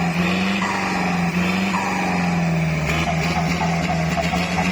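Kubota tractor's diesel engine running steadily under load while pulling a rotary tiller, its pitch sagging slightly about halfway through.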